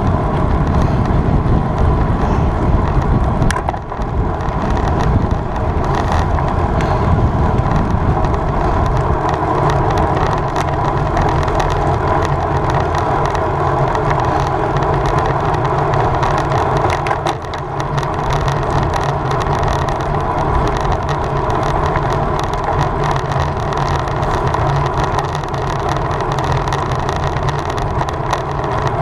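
Steady wind rush and road noise from riding a road bicycle at speed, with wind buffeting the microphone.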